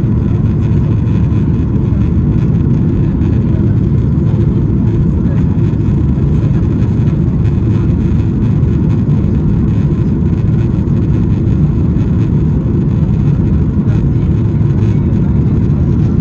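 Steady, loud cabin noise inside a Boeing 737-800 in flight: a deep, even rumble of its CFM56 jet engines and the airflow over the fuselage, with a faint steady tone above it.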